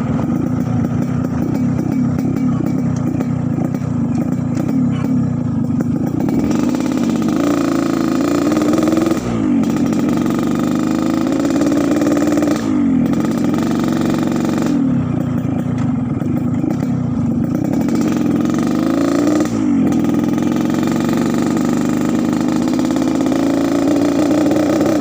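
Yamaha RX-King's two-stroke single-cylinder motorcycle engine running with a rough, snoring 'ngorok' exhaust note, steady at first, then revved up four times, each rev climbing slowly and dropping back quickly.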